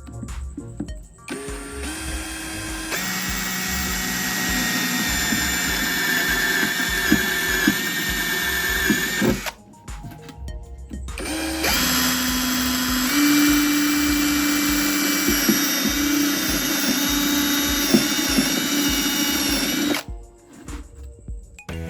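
Electric drill running in two long spells of about seven and eight seconds, its motor pitch stepping up now and then as it bores, over background music with a steady beat.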